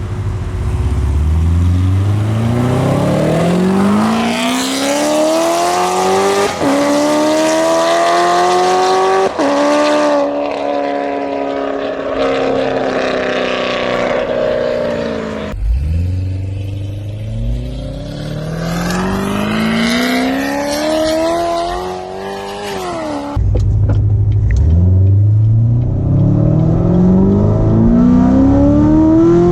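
Corvette C7 Z06's supercharged V8 with long-tube headers accelerating hard, its pitch climbing through the gears with short dips at each upshift, then falling as it slows. The sound cuts abruptly twice to fresh pulls from low revs.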